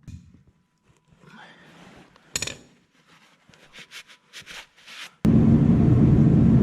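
Small metal clicks and a sharp knock from hand work on the machine. About five seconds in, an excavator's diesel engine is heard running loudly and steadily, cutting in abruptly.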